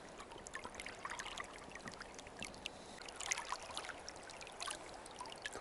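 Faint water trickling and dripping, with many small scattered ticks.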